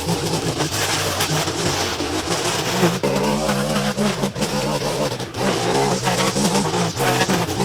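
Small engine running steadily at high speed, its pitch rising and falling a little as it is throttled.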